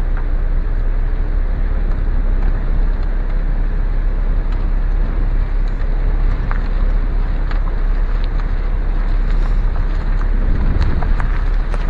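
A car driving, with a steady rumble of road noise and wind on the microphone.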